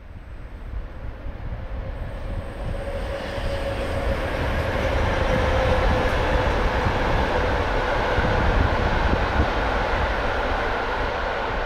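Passenger train hauled by a PKP class EP07 electric locomotive passing on the line: wheels rumbling over the rails, building up over the first few seconds and then holding steady, with a faint tone that slides slightly lower as it goes by.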